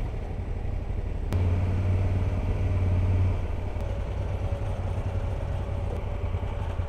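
Motorcycle engine running at low speed, heard from the rider's seat as a steady low rumble. It swells a little for about two seconds just after the first second, then settles.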